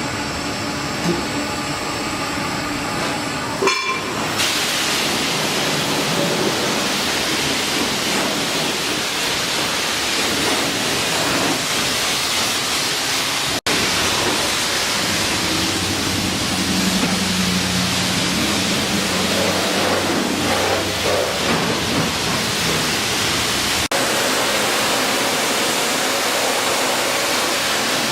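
Coin-operated self-serve wash wand spraying high-pressure water, a steady hissing rush that starts about four seconds in after a short hum.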